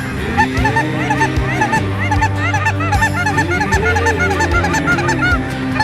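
A flock of geese honking, many short calls overlapping one another, over a steady music bed.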